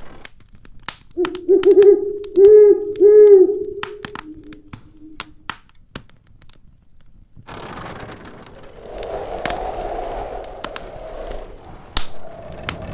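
Wood fire crackling in a fireplace, with sharp pops throughout. About a second in comes a low hooting call of three swelling notes, the loudest sound. From about the middle on, snowstorm wind rises as a hissing gust with a faint howl.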